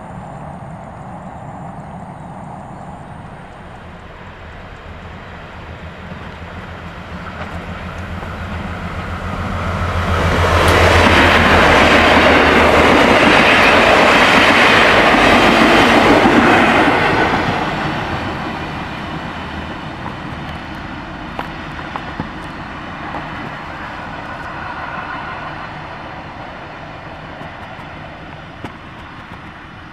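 Passenger multiple-unit train passing close by. A low hum builds as it approaches, then the rush of its wheels on the rails is loudest for about seven seconds before fading away.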